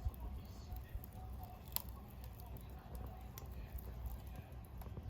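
Wood fire burning in a homemade stainless-bowl secondary-combustion fire pit: scattered crackles and a few sharp pops, the loudest about two seconds in, over a steady low rumble.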